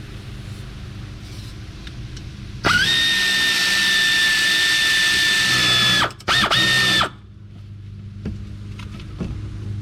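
Cordless power tool motor spinning up and running at a steady high whine for about three seconds, cutting out, then a brief second burst, as it works on a hub assembly bolt.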